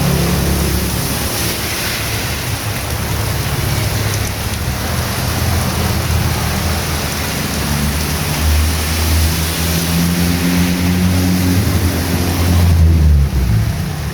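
Heavy rain falling steadily. Underneath it a low engine hum from passing traffic grows louder in the second half, then stops about a second before the end.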